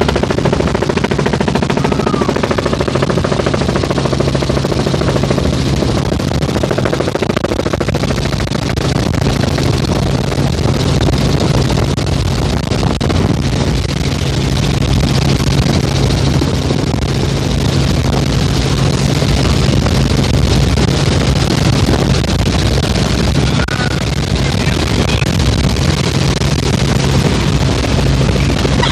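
Helicopter in flight: a loud, steady drone of engine and rotor with a constant low hum and a fast, even pulsing of the blades.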